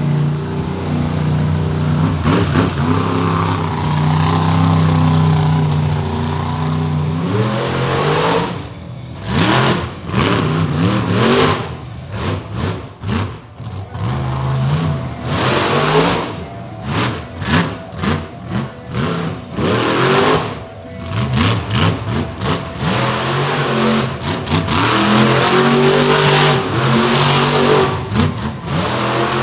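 Monster truck engine at high revs, held steady at first, then blipped on and off in quick, uneven throttle surges for much of the middle, and back to a steady run near the end.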